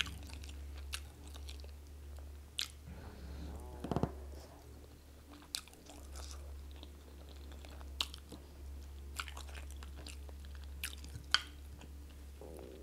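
Close-up chewing of chicken and plantain in pepper soup, with wet mouth sounds and scattered sharp clicks every second or two, over a steady low hum.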